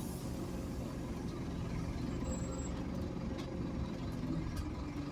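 Scania N230UD Omnicity single-deck bus's five-cylinder diesel idling at a standstill, heard from inside the bus: a low steady rumble with a few faint clicks.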